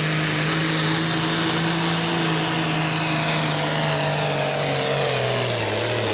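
Hot stock pulling tractor's diesel engine running hard at a steady high pitch under the load of the sled. Its pitch drops near the end as the pull comes to a stop.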